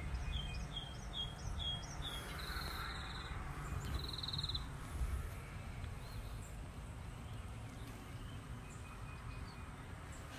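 A songbird singing: a quick run of five repeated chirps, then two short buzzy trills in the first half, over a steady low rumble.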